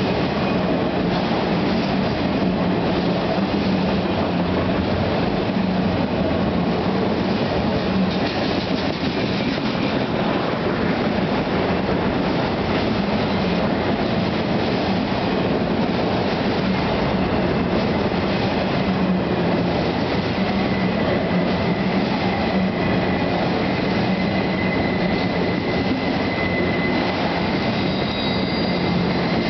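CSX autorack freight cars rolling past at speed, a steady, loud rumble and rattle of steel wheels on rail. A thin, high squeal comes in over the second half.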